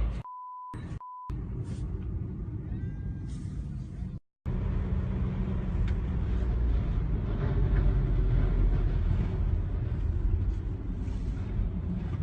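Low steady rumble of a vehicle driving, engine and road noise as picked up by a dashcam, broken near the start by two short high beeps. The sound cuts out for a moment about four seconds in, then the rumble carries on.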